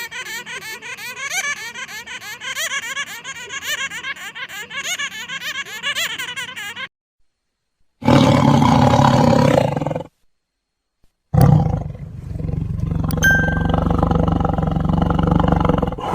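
Rapid, wavering high-pitched animal chattering, several calls a second, which stops after about seven seconds; then, after short gaps, two loud, harsh lion roars, the second one long.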